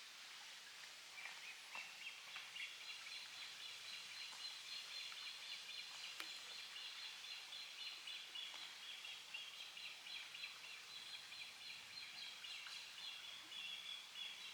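Faint, continuous high twittering of small birds that starts about a second in and keeps going as quick repeated chirps, over a light outdoor hiss.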